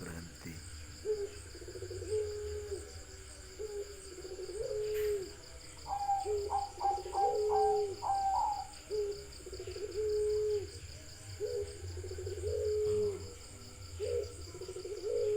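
A bird calling over and over in low, hoot-like held notes, about a dozen of them. From about six seconds in, a run of quicker, higher notes lasts for about two and a half seconds.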